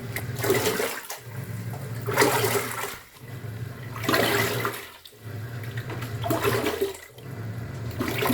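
Top-loading pulsator washing machine agitating a load. The motor hums and drives surges of sloshing water, pausing briefly about every two seconds as the pulsator changes direction.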